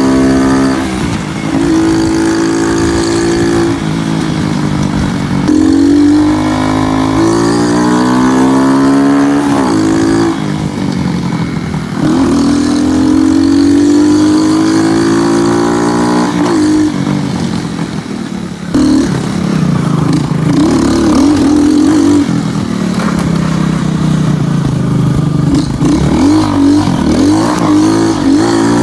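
Honda CGL125 motorcycle's single-cylinder engine, bored out to 222cc, accelerating hard. The pitch climbs for a few seconds and falls back again and again, as at gear changes.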